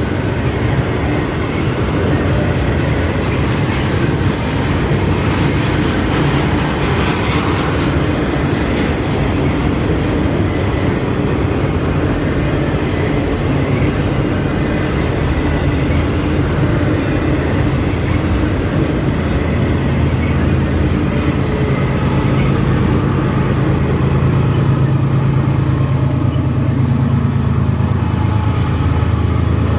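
A freight train passing close by, its railcars rolling on the rails. A steady low drone grows louder over the last third.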